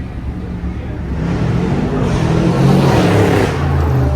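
A car engine accelerating hard, its exhaust note rising and growing louder to a peak about three seconds in, then easing off.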